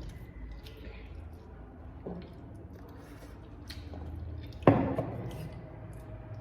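Close-miked, wet, squishy chewing of food. About two-thirds of the way through there is one sharp knock, the loudest sound.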